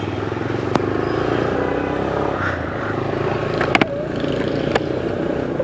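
Motorcycle engine running steadily as the rider sets off, with a few short sharp clicks or knocks.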